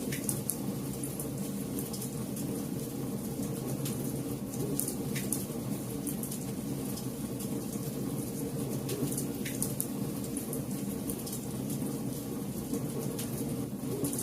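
Wood campfire burning: a steady low rush of flames with sharp crackles and pops from the burning wood every few seconds.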